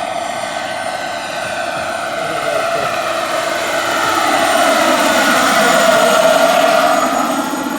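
Turbine-powered RC scale model helicopter flying: a steady high turbine whine over rotor noise. It grows louder with its pitch bending as it passes close, loudest a little after the middle.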